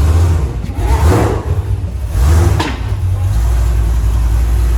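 Mk8 Volkswagen Golf GTI's turbocharged 2.0-litre four-cylinder running through an aftermarket Xforce cat-back exhaust with a catted Milltek downpipe, giving a steady low exhaust note.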